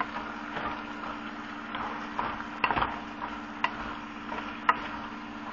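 Frozen mixed vegetables sizzling in a hot pan of sauce while being stirred, with a utensil clicking against the pan a few times. A steady low hum runs underneath.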